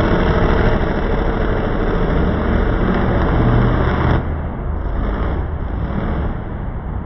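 Monster truck engines running loudly. The sound drops and changes abruptly about four seconds in.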